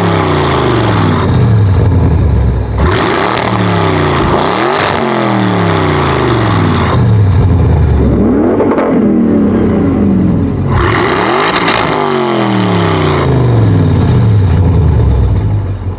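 Decatted Audi RS6 C7's twin-turbo V8 with Akrapovic exhaust at full throttle on a drag run, in a series of loud passes. Each engine note drops in pitch as the car goes by.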